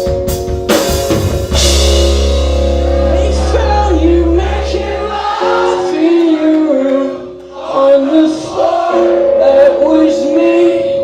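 Live rock band playing loud: the drums end on a crash about a second in, then guitars ring on a held chord over a low bass note that stops after about five seconds, with singing over it.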